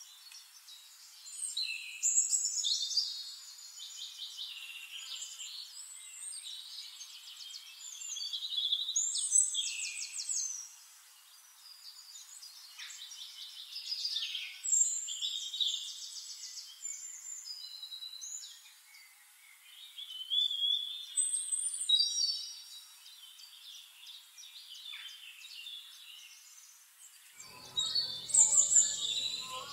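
Small birds chirping and singing in a string of short calls, whistles and quick trills. A low hum comes in near the end.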